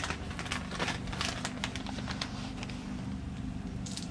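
Bacon, an egg and hash browns sizzling and crackling on a Chefman electric griddle, a dense run of small pops over a steady low hum. A short rustle of a plastic cheese bag comes near the end.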